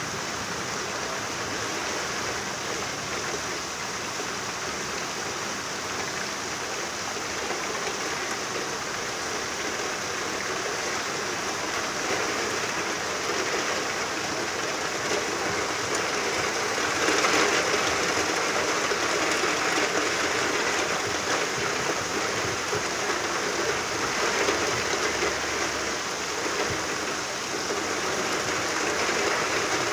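Steady rainfall, a dense even hiss of falling rain that grows a little heavier just past the middle.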